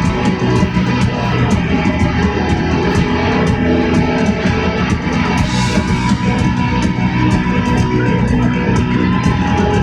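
Live rock band playing, with guitar to the fore over a drum kit keeping a steady beat.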